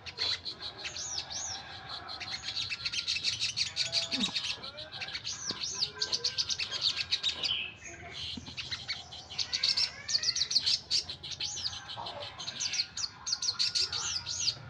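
Kecial kuning songbird singing in full song: a fast, continuous run of high chirps and twittering notes, with a brief pause a little past halfway.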